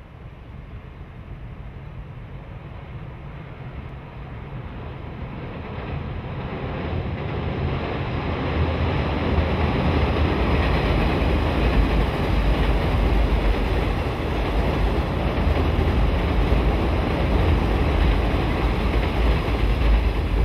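JR West 583 series sleeper electric multiple unit passing on a girder bridge: a steady running noise that grows louder as the train approaches, joined about eight seconds in by a heavy low rumble that holds while the cars go by.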